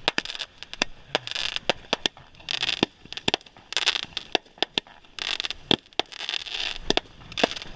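Fireworks going off: irregular sharp cracks and pops mixed with several short bursts of hissing crackle.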